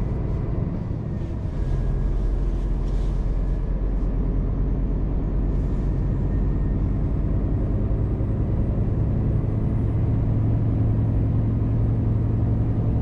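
Scania hybrid truck under way, its drivetrain giving a steady low engine drone that grows louder about a second and a half in.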